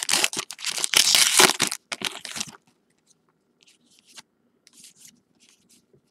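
Foil trading-card pack wrapper crinkling and tearing open for about two and a half seconds, then soft faint clicks and shuffles as the cards are handled.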